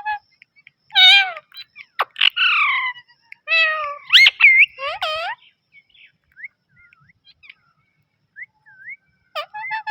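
Pet parrot vocalizing: a burst of loud, bending talk-like calls and whistles over a few seconds, then a few faint short chirps, then a quick run of repeated short calls near the end.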